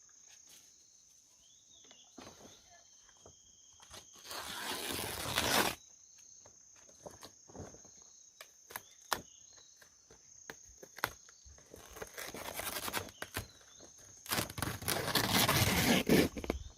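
Insects chirring steadily and high, with two louder spells of rustling and crunching, about four seconds in and again near the end.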